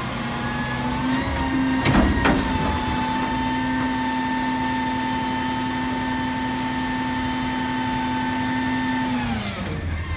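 Recycling garbage truck's engine and hydraulic pump revved up and held to run the hydraulics, a steady whine that winds down near the end. Two sharp knocks come about two seconds in.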